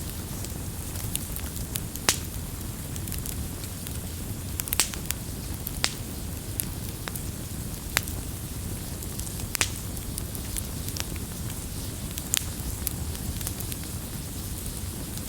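Campfire burning with a steady low rumble, wood crackling and popping in scattered sharp snaps, several of them loud.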